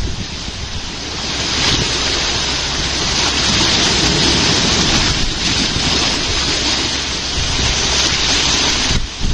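Wind gusting hard across the microphone over the rush of churning water, swelling for a few seconds in the middle and easing briefly near the end.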